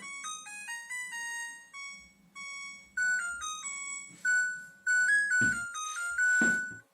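LG washing machine's built-in beeper playing its electronic melody, a tune of clean stepped beep notes. Two loud knocks cut in near the end.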